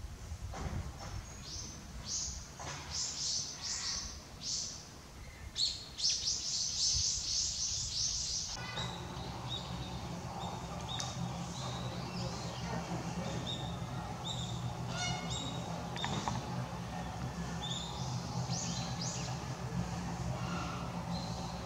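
Small birds chirping in short, high calls, with a quick run of notes about six seconds in. Around a third of the way through the background changes abruptly to a steady low hum, and the chirping goes on over it.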